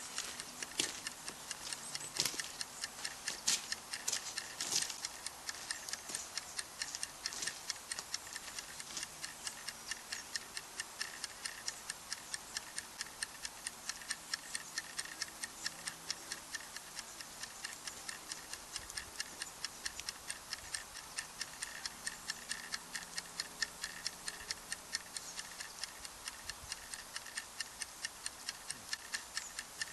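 Campfire of burning wood crackling: a dense run of small snaps and pops, with a few louder pops in the first five seconds.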